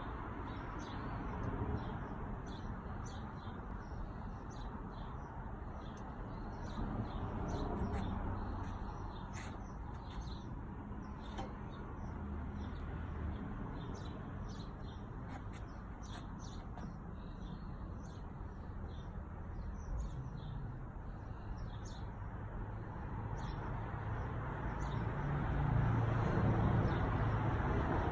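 Small birds chirping in short, scattered calls over a steady low rumble that grows louder near the end.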